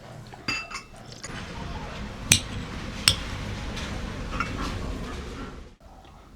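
Dishes, cutlery and glasses clinking, with two sharp ringing clinks a little under a second apart in the middle, over a steady low background hiss that cuts off suddenly near the end.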